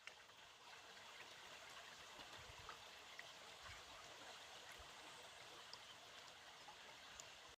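Faint, steady rush of running water from a small stream, with a few light ticks and splashes.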